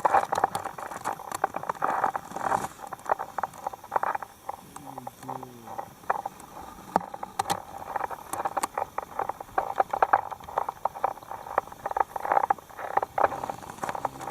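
Penguins pecking and bumping at a camera held close: many irregular knocks, taps and scrapes on the camera itself.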